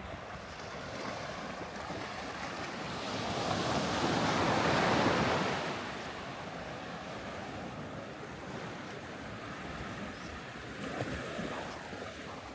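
Sea surf on a beach: a wave washes in, swelling to its loudest about halfway through and then falling back to a steady wash.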